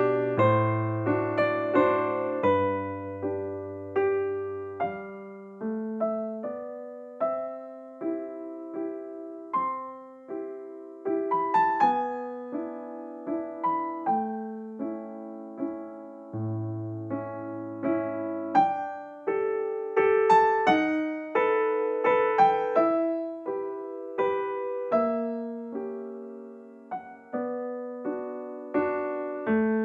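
Soft background piano music: chords and single notes struck at an easy pace, each ringing and dying away, over a slow bass line.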